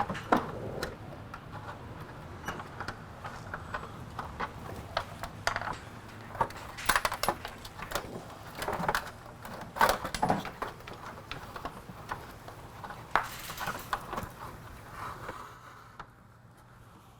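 Irregular metallic clicks, clinks and knocks of an Allen wrench, small fairing bolts and plastic panels being handled as a motorcycle's lower plastic fairing is unbolted and taken off. It quietens near the end.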